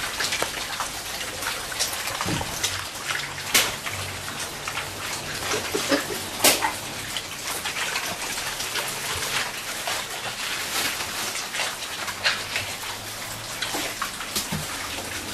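Pigs eating pawpaw: steady wet chewing and slurping made up of many small smacks and clicks.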